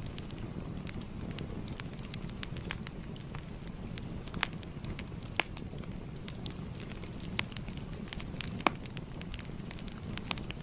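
Fire crackling: irregular sharp pops and snaps over a steady low rumble of burning flames, with two louder snaps about five and a half and nearly nine seconds in.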